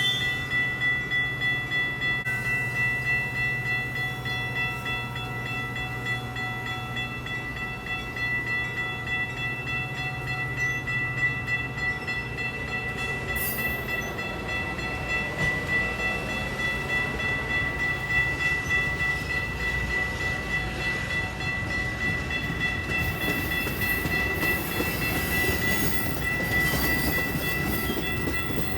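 A train rolling by on the tracks: a rumbling, pulsing run of rail cars with a few steady high-pitched tones held over it throughout.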